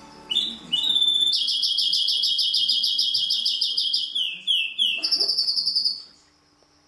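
Greenfinch × canary hybrid singing one song phrase. A few short opening notes lead into a long, fast rolling trill, then three quick down-slurred notes and a final short trill, and the song stops about six seconds in.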